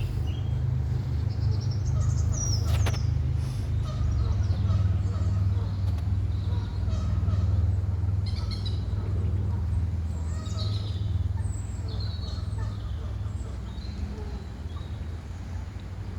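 Birds chirping and calling in short scattered notes over a steady low rumble, with one sharp click about three seconds in.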